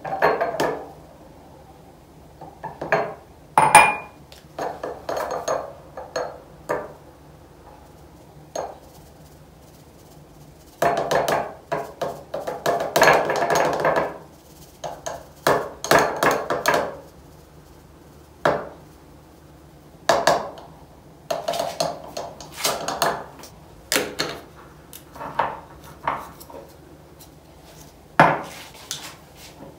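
Kitchen storage jars and containers clattering and clinking as they are handled and set down, in irregular bursts, busiest about a third of the way in.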